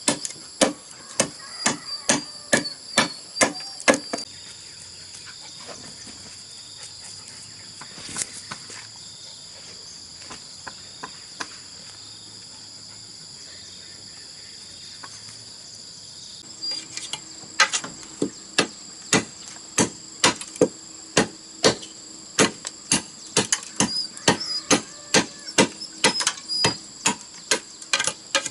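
A hand tool striking repeatedly with sharp blows, about two a second, in two runs: one for the first few seconds and another from a little past halfway to the end. Insects trill steadily and high-pitched throughout.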